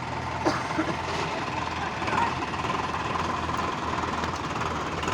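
Tractor diesel engines running hard under load with a knocking clatter, with people shouting over them.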